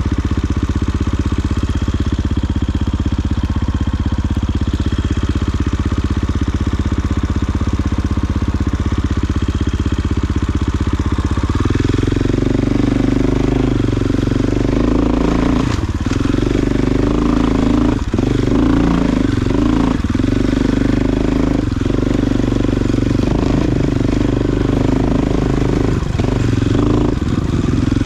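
Off-road vehicle engine running steadily at low speed; about twelve seconds in its note rises and turns uneven as it is worked harder, with a few sharp knocks later on.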